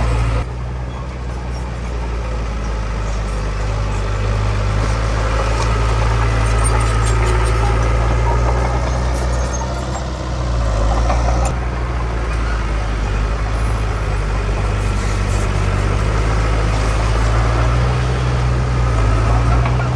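Heavy diesel engines of earthmoving machinery running with a steady low drone, which dips briefly about ten seconds in.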